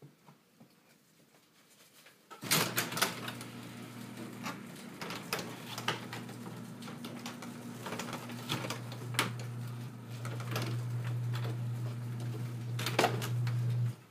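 A motor running steadily with many sharp clicks and scrapes over it; it starts suddenly about two and a half seconds in, grows a little louder later on, and cuts off abruptly just before the end.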